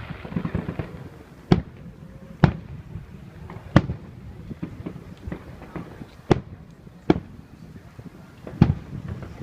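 Aerial fireworks bursting one after another: about six sharp bangs spread irregularly across the moment, with smaller pops between them.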